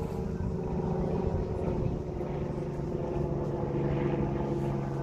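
An engine running steadily, its pitch dropping slightly about three seconds in.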